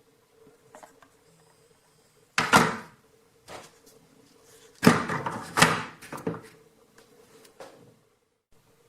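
A few knocks and short clattering handling noises over a faint steady hum. The loudest come about two and a half seconds in and in a cluster around five to six seconds in.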